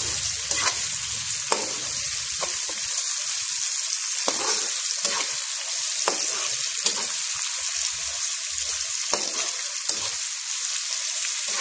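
Sliced onions and chilli paste sizzling in hot oil in a wok, stirred with a spatula that scrapes against the pan about once a second over a steady high hiss.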